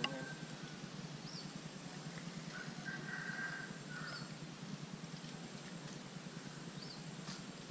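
Birds calling over steady background noise: a few short high chirps spread through, and a longer call a few seconds in.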